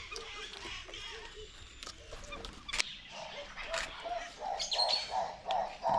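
Birds calling: scattered chirps, and from about three seconds in one call repeated about twice a second.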